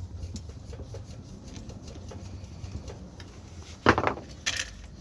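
Parts of a bench drill being handled during assembly: faint small clicks, then a loud clunk about four seconds in and a shorter knock half a second later.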